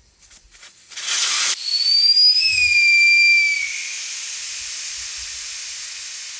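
Air escaping under pressure: a short blast about a second in, then a steady hiss with a thin, wavering whistle over it for a couple of seconds.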